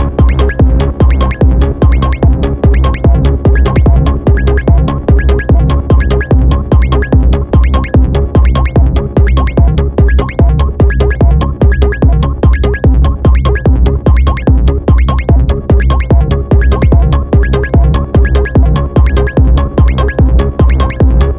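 Electronic music played on an Elektron Model:Cycles groovebox and Moog Sound Studio synthesizers: a steady drum-machine beat over a heavy bass line and pitched synth parts.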